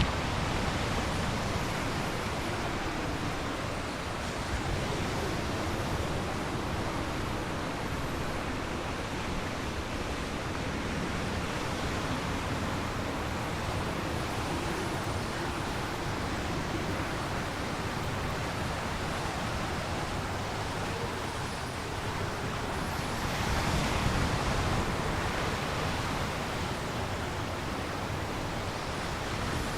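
Storm wind and waves breaking on a large lake: a steady rushing noise of wind and surf, swelling louder for a few seconds about three-quarters of the way through.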